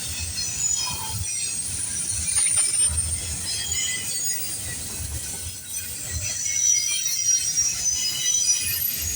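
Freight cars of a CPKC train rolling past at a level crossing, wheels squealing in thin high-pitched tones over a low rumble with irregular thuds from the wheels on the rails.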